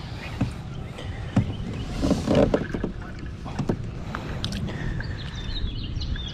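Scattered knocks and clicks of gear being handled on a small fishing boat, over a steady low rumble, with a louder cluster of knocks about two seconds in.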